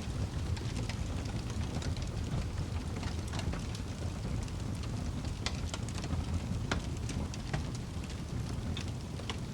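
Wood fire burning in a fireplace: a steady low rumble of flames with scattered crackles and sharp pops from the burning wood, a few louder pops in the second half.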